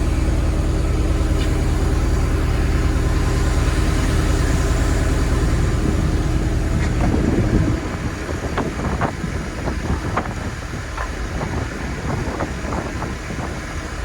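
Sandblasting rig running: a steady, loud rumble and hiss of air and grit that stops abruptly a little under eight seconds in. After it stops come scattered light clicks and knocks.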